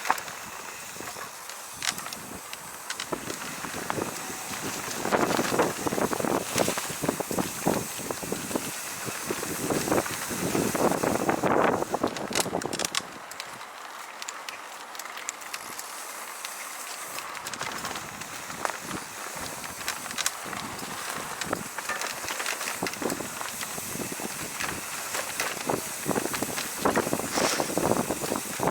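Bicycle ride on a rough trail: wind buffeting the microphone, with tyres crunching and the bike rattling in many small clicks; the wind grows louder for several seconds in the first half and again near the end.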